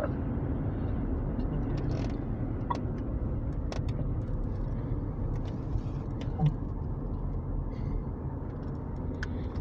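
Steady road and engine noise inside a moving car, with a few faint, scattered clicks.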